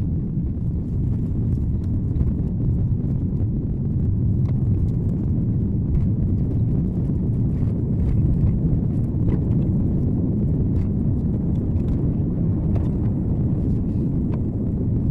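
Car driving, heard inside the cabin: a steady low rumble of tyres and engine, with scattered light clicks and taps.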